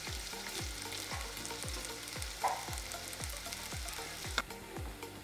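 Potatoes and onions frying in plenty of hot oil in a saucepan, a steady sizzle, with a wooden spoon stirring them and knocking against the pan now and then. A soft music track with a steady beat runs underneath.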